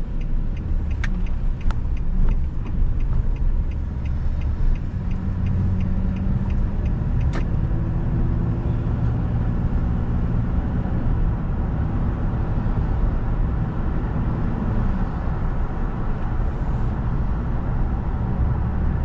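Car driving along a road: a steady low rumble of engine and tyres. An even ticking, about two to three a second, runs through the first several seconds and then stops.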